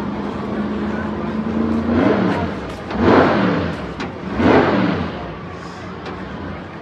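Jet engine of a jet-powered race car running steadily, then revved in two loud surges about a second and a half apart, each rising and falling in pitch.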